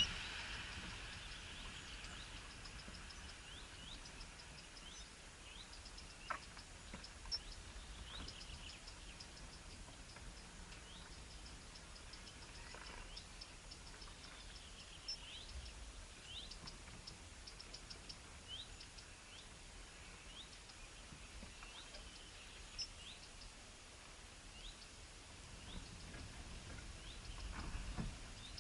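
Small birds chirping faintly: short upward chirps and quick runs of high notes, over a steady outdoor hiss with a few sharp clicks.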